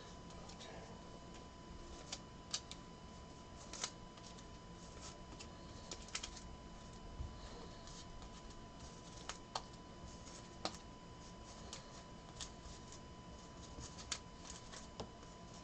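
Trading cards being handled and sorted on a table: faint, irregular light clicks and taps as cards are flicked, set down and stacked, over a steady faint hum.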